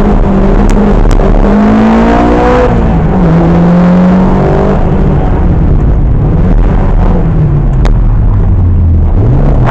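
Rally car engine heard onboard at stage pace. The revs climb, drop sharply about two and a half seconds in, then keep rising and falling through the rest, with a few short clicks.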